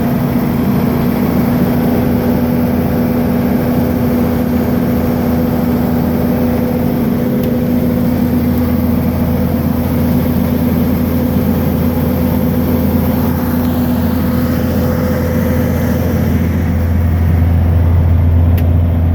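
Truck engine running steadily with a constant hum; a deeper low drone builds and grows a little louder over the last few seconds.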